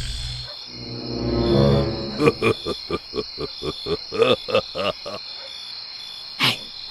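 Steady high chirring like crickets at night, with a quick run of about a dozen short pitched calls a couple of seconds in and one more near the end.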